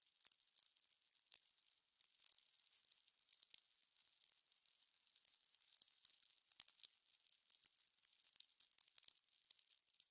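Fire crackling: a dense, irregular run of small pops and snaps over a soft hiss.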